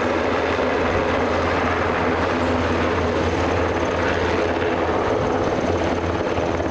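Helicopter flying at an airshow: steady rotor and turbine noise, with a constant deep hum under it.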